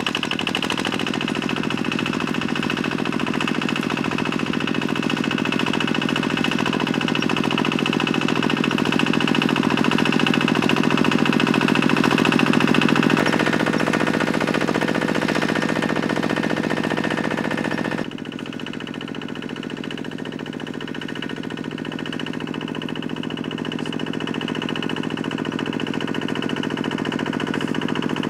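Small farm-machine engine running steadily with a fast, even chugging; the note shifts about halfway through and the sound drops in level about two-thirds of the way through.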